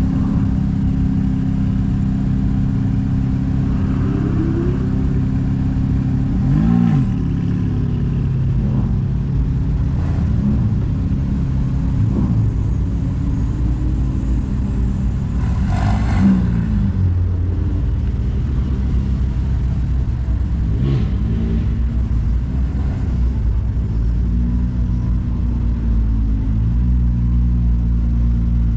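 Ferrari sports car engines idling and running as the cars creep past in a line, a steady low burble. Short blips of revs rise and fall about a quarter of the way in, around the middle, and again a little later.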